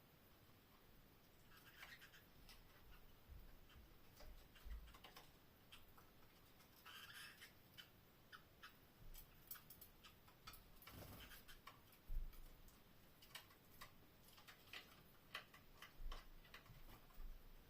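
Canaries moving about in a cage: faint, irregular clicks and taps, with a couple of brief soft scratchy sounds.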